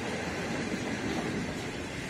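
Container freight train's wagons passing at speed: a steady noise of steel wheels running on the rails.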